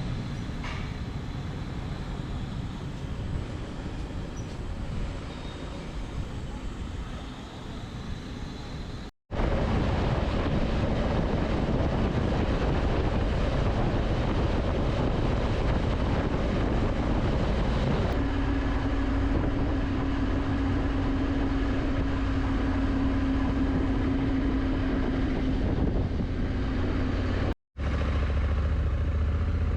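Steady vehicle and road noise in several short segments with abrupt cuts between them. A steady tone joins the noise about halfway through, and a low steady hum follows the last cut near the end.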